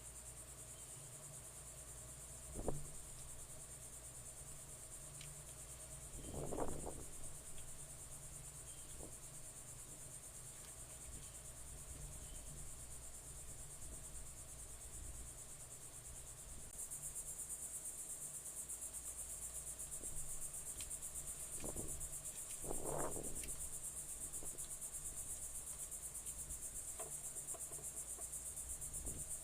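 Backyard insect chorus: a steady, high-pitched, rapidly pulsing chirring of crickets that steps up in level about halfway through. A few brief rustling noises and a sharp click stand out above it.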